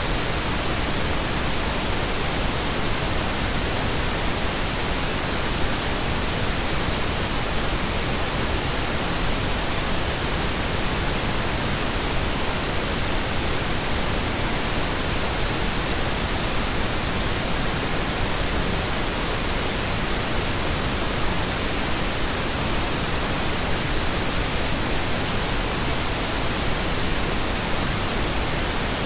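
Steady pink noise: an even, unchanging hiss spread across all pitches, played as a sleep aid.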